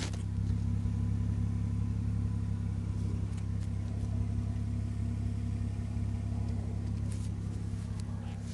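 VW Passat 3BG V6 engine idling steadily with no exhaust fitted, giving an open, unsilenced engine note.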